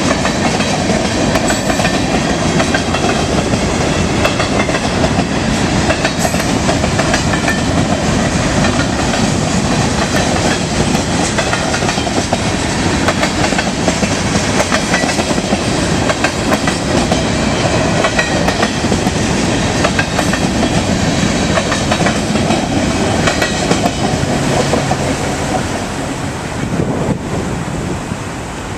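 Freight train cars rolling past, steel wheels clacking over the rail joints. The loud, steady noise eases off a little near the end.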